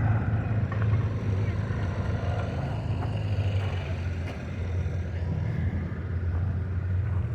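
Tractor engine running steadily at low speed, an even low hum.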